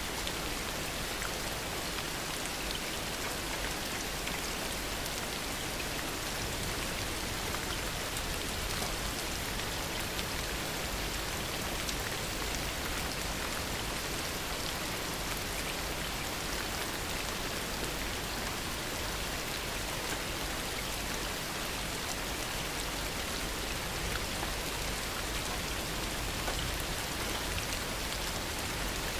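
Heavy rain falling steadily, an even hiss flecked with many individual drop ticks.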